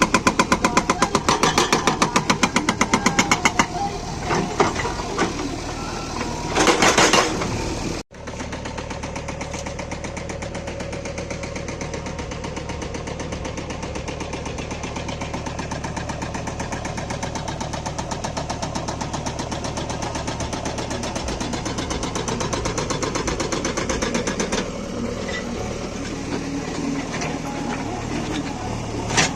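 Hydraulic breaker on a JCB backhoe loader hammering in rapid, even blows for the first few seconds. After a sudden cut about eight seconds in, the backhoe's diesel engine runs steadily.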